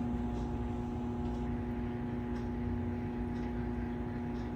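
A steady machine hum with a low rumble and faint ticks about once a second.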